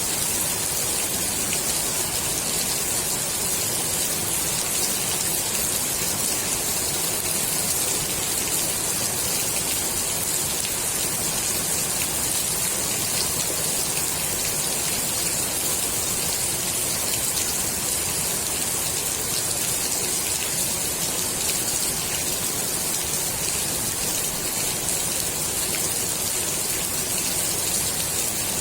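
Steady rain falling on the water of a swimming pool, an even hiss of drops with fine scattered patters.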